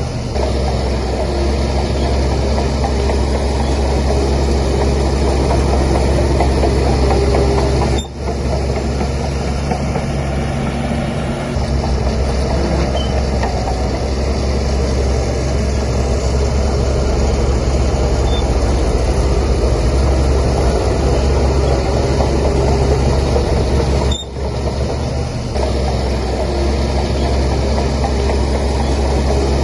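Bulldozer diesel engine running steadily under load with a heavy low rumble, and the sound briefly dropping out about 8 and 24 seconds in.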